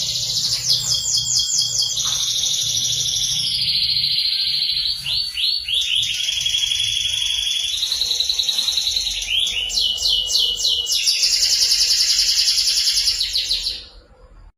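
Canary singing a long, unbroken song of rapid trills and runs of quick repeated notes, changing phrase every second or two, then stopping suddenly near the end.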